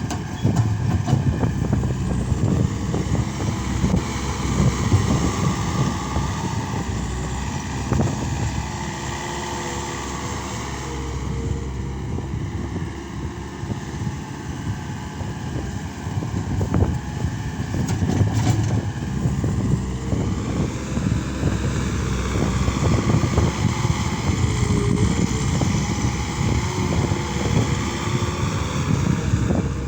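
Case SR200 skid steer loader's diesel engine running under load, its pitch and level going up and down as it works.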